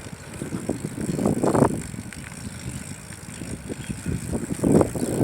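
A bicycle being ridden, its riding noise steady, with two louder rushes of noise about a second and a half in and near the end.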